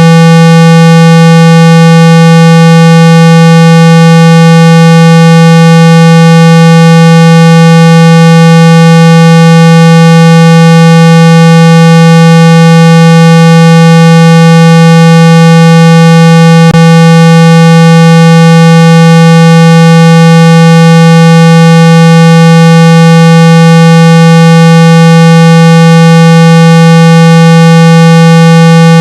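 A loud, steady 165 Hz synthetic tone with many overtones, played at full volume to shake water and dust out of an iPhone speaker. A single brief click comes about two-thirds of the way in.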